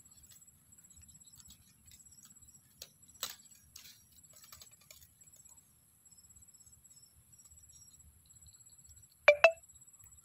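Scattered soft clicks and rustles, then two sharp, loud clicks in quick succession near the end, over a steady high-pitched buzz.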